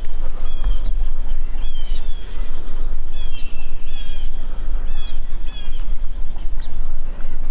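Birds calling in a series of short, high chirps, some in quick pairs, over a steady low wind rumble on the microphone.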